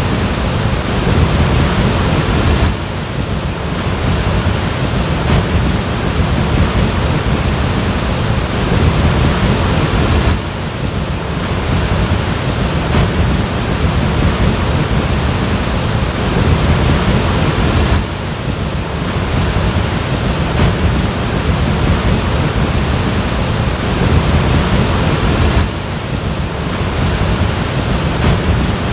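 Floodwater rushing, a loud steady wash of noise, heaviest in the low end, that dips briefly about every seven to eight seconds.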